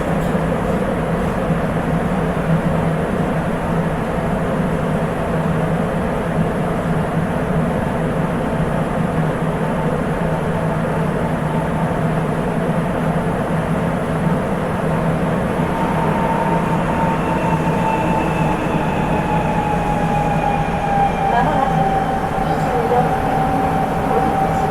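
Sapporo Municipal Subway 8000 series rubber-tyred train running at speed, heard from inside the car. About two-thirds of the way through, the Hitachi IGBT VVVF inverter's whine rises out of the running noise and slowly falls in pitch as the train slows for the next station.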